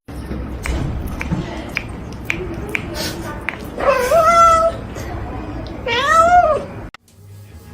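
A cat meowing loudly twice, each meow under a second long, the second one rising then falling in pitch, with light clicks and taps before them.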